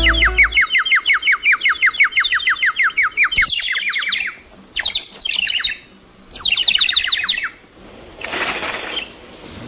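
Clay bird whistle blown in a fast warbling trill of quick falling chirps, about five or six a second, then in two shorter bursts. A brief burst of hiss-like noise near the end.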